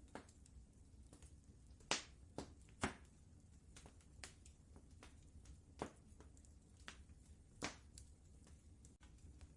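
Wood fire crackling softly, with irregular sharp pops; the loudest come in a cluster about two to three seconds in and once more near the end, over a low steady rumble.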